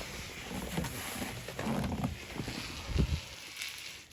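Irregular soft thumps and scuffs, with one sharper knock about three seconds in: someone handling a door that had frozen stuck.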